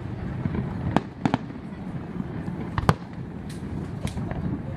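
Fireworks show: aerial shells bursting in a string of sharp bangs at uneven intervals, over a steady low background rumble.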